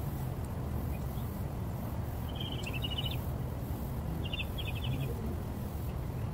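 A bird calls twice, each call a short burst of quick chattering notes, about two and a half and four and a half seconds in, over a steady low outdoor rumble.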